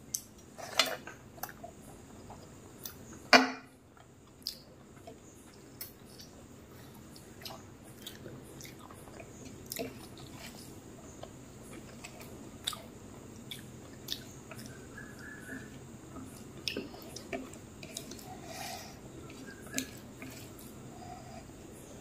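Close-miked chewing of a rice meal, with soft wet squishes of fingers mixing rice and curry on a plate. Scattered sharp clicks throughout, two louder ones in the first few seconds.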